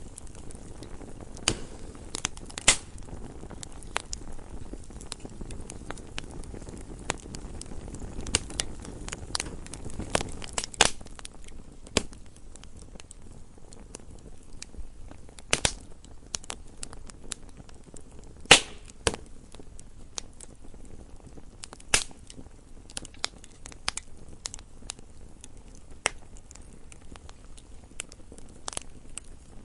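Wood fire in a fireplace crackling and popping: irregular sharp snaps over a low, steady hiss of burning logs, with a few louder pops scattered through.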